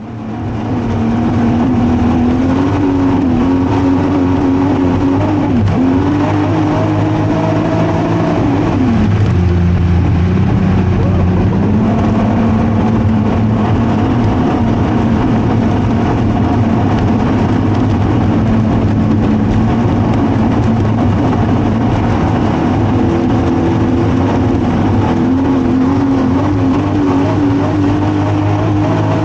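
Newly built car engine running loudly under test, its pitch wavering, dipping briefly about six seconds in and settling lower about nine seconds in.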